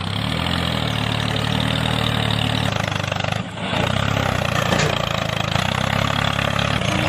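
Engine running steadily, briefly dipping about three and a half seconds in.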